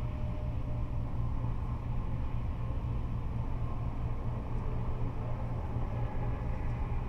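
Freeway traffic of cars and trucks going by, heard as a steady low rumble with no single vehicle standing out.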